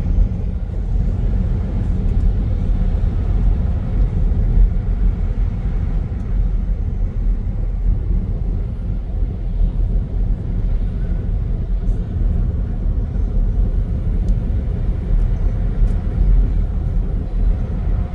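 Steady low rumble of a car driving at road speed, heard from inside the cabin: engine and tyre noise with no other clear events.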